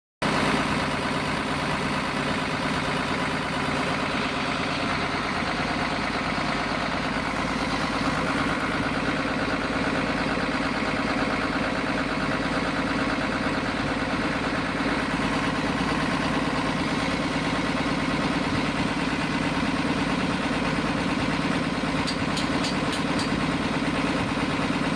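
Diesel engine idling steadily, with a few faint clicks near the end.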